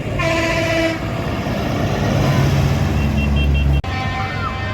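A truck's air horn blasts once, briefly, at the start, then the heavy engine of a passing lorry rumbles louder and cuts off suddenly near the end.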